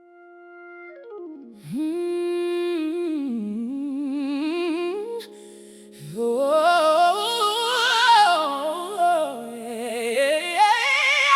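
Wordless singing: a voice with vibrato hums a slow melody over steady held tones, sliding up into a new phrase about 1.5 seconds in and again about 6 seconds in.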